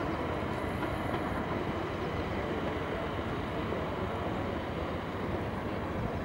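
Steady rumbling noise of a rail vehicle running, with a faint high whine briefly about a second in.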